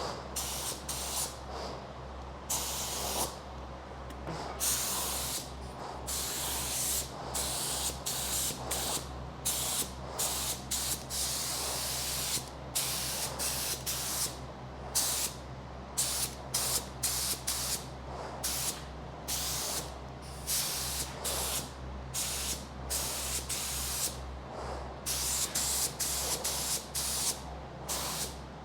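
Compressed-air spray gun hissing in many short, irregular bursts as trigger pulls, over a steady low hum.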